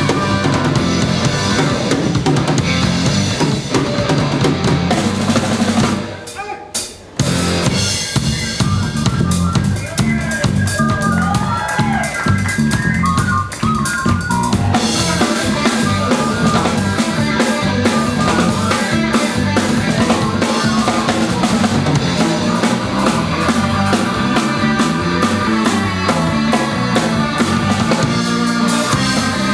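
Live rock band playing, with a full drum kit prominent. About six seconds in the band stops for a moment, comes back in more sparsely with bending, gliding notes, and the full band returns about halfway through.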